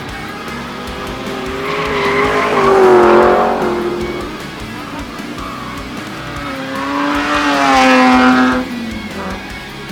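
Drift car's high-revving engine, the Skyline R32's billet RB28 straight-six, passing twice. Each pass swells up and falls away, about three seconds and eight seconds in, over background guitar music.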